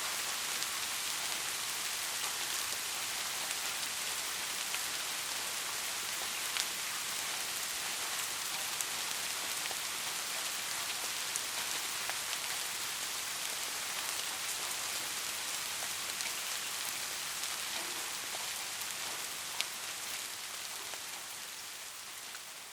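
Soft rain falling steadily, an even hiss with the odd sharper drop tick. It begins to fade out near the end.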